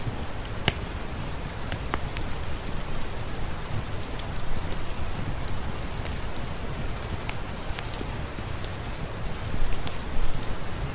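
Steady heavy rain falling on a surface, with scattered sharp ticks and pops through it and a slight swell in level near the end.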